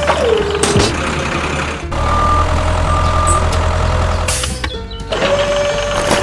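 Miniature construction-vehicle machine sounds cut together: a steady motor whine that drops in pitch just after the start, then a cut to a low engine sound with two short beeps, and the whine returning near the end.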